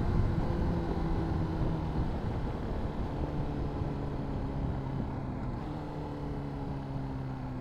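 Honda CBR600RR inline-four engine with a Yoshimura slip-on exhaust, heard from the rider's seat while riding, its pitch slowly falling and stepping up once about two-thirds of the way through, over wind rush.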